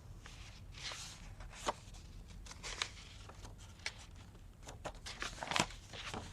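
Paper and card pages being handled and sorted by hand: irregular rustles, swishes and light taps.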